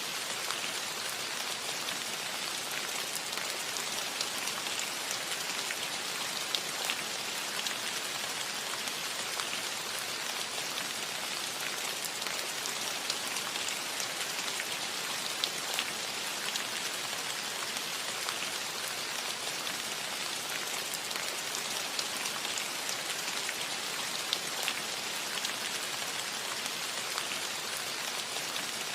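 Steady gentle rain on a metal roof: an even hiss with many small scattered drop ticks.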